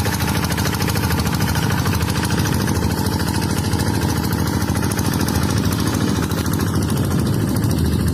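Tractor engine running steadily at an even speed, with a fast, regular firing pulse.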